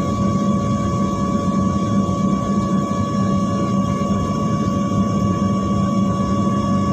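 Steady drone of an airliner's jet engines and cabin air heard inside the passenger cabin before takeoff, with a constant hum and no change in pitch or level.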